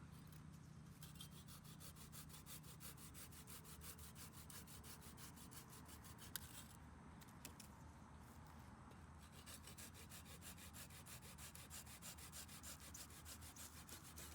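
Quiet, fast, rhythmic scraping or rubbing, several strokes a second, in two runs with a short pause about halfway.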